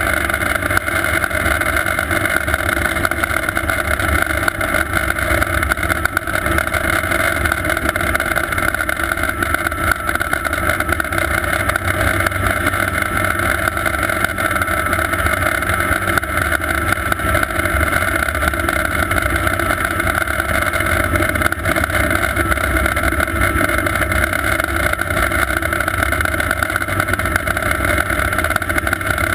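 Sikorsky S-58T twin-turbine helicopter running steadily: a constant high turbine whine over the dense rumble of the rotors.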